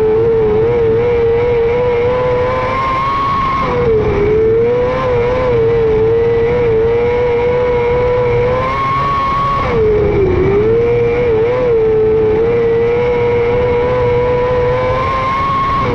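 Micro sprint car's 600cc motorcycle engine running at high revs lap after lap. The note climbs along the straights and drops sharply and briefly about every six seconds as the throttle lifts for the turns, then picks back up.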